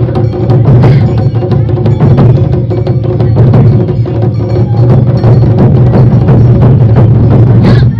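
Awa Odori festival band playing loudly, drums and clacking percussion beating a brisk, steady rhythm.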